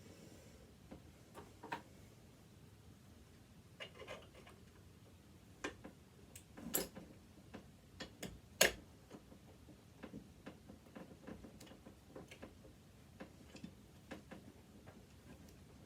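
Irregular small clicks and taps of hand tools working on the parts of a sewing machine being dismantled, with two louder knocks about seven and eight and a half seconds in.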